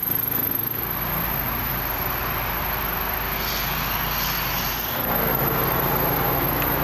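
A 1990 Hyundai Sonata's 2.4-litre inline-four idling steadily with a low hum, which grows a little stronger about five seconds in.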